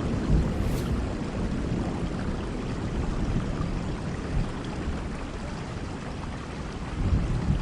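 Steady rain with the low rumble of thunder rolling on and slowly dying away.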